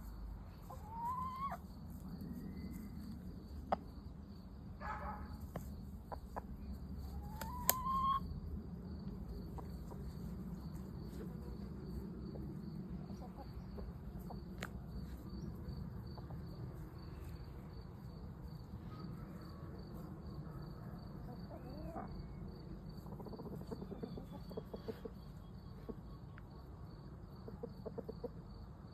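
Chickens clucking softly against steady, evenly pulsed cricket chirping, with a few short rising calls early on and a faster run of clucks near the end.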